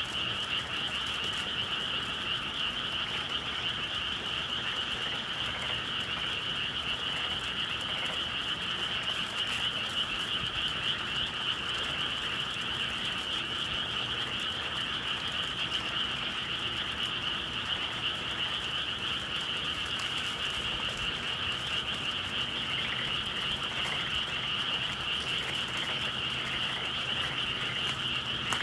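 A dense, steady chorus of many frogs calling together, the massed croaking of a spring evening in the countryside.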